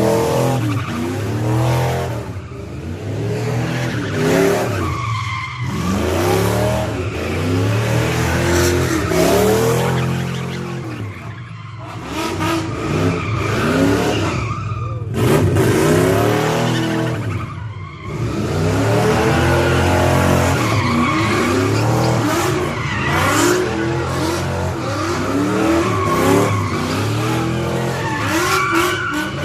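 A car's engine revving up and falling back over and over while its tyres screech and skid, as in sideshow donuts or burnouts.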